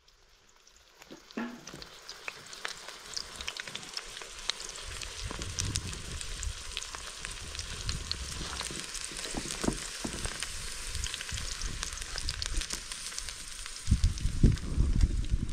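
Eggplant slices frying in oil in a shallow metal pan: a steady sizzle with many small crackles and spits, growing louder as more slices are laid in. A louder low rumble comes in near the end.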